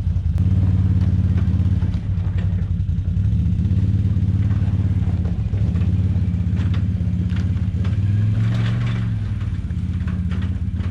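ATV engine running steadily under way, with rattles and knocks from the ride; the engine note rises briefly about eight seconds in.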